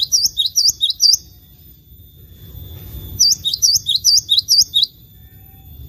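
A small songbird giving rapid series of sharp, upward-flicking chirps, about four a second, in two bouts: one ending about a second in and another starting around three seconds in. A low background rumble runs underneath.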